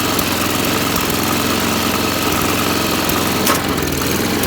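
MTD Yard Machine snowblower's small single-cylinder engine running steadily while the machine is driven in high gear on a newly replaced friction disc, with no clicking from the drive. A single sharp click about three and a half seconds in.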